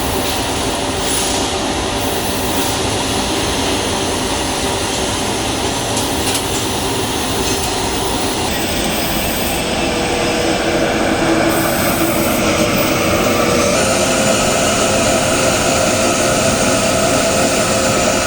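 A 3000 W fiber laser cutting machine cutting 10 mm steel plate: a steady, loud rushing noise with a hum underneath, whose pitch shifts about eight seconds in and again around fourteen seconds in.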